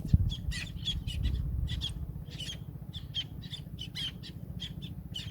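Birds chirping, with many short, sharp calls repeating several times a second, over a steady low rumble. There is a single thump just after the start.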